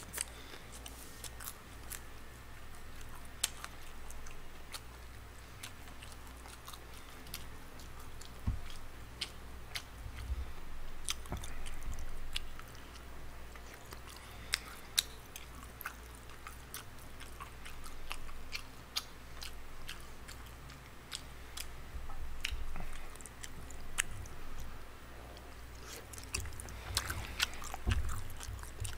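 A person chewing and biting into tteokbokki rice cakes and fried snacks close to the microphone, in bouts, with some crunching and many short sharp clicks.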